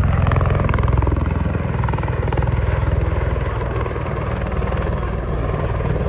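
MV-22 Osprey tiltrotor passing low, its two big proprotors giving a rapid beat over a deep engine drone, slowly fading as it moves away.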